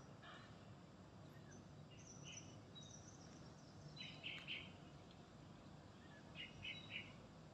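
Faint, short bird chirps over a low, steady background rumble, with two louder chirps about four seconds in and three in quick succession near the end.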